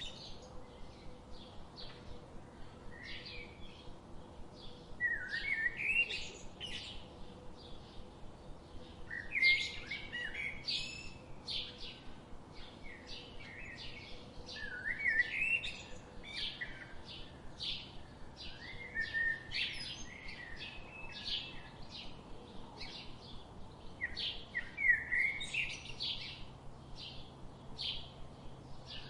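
Wild tropical forest birds singing. A short phrase of quick, rising, zigzagging notes comes back every four to five seconds over a steady run of short, high chirps.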